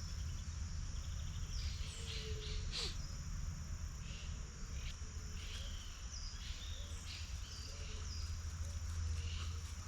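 Outdoor nature ambience: a steady, high-pitched insect trill of crickets runs throughout, with scattered short bird chirps over it and a low steady rumble underneath.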